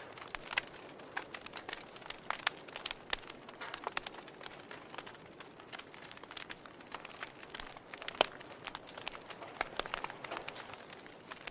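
Wood fire crackling in a fireplace: irregular snaps and pops over a soft steady hiss, with one louder pop about eight seconds in.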